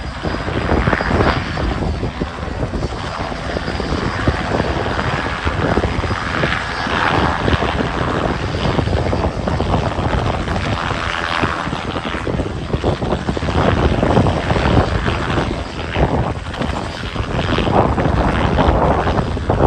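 Bell JetRanger helicopter in a hover, its engine and rotor running with a steady loud drone.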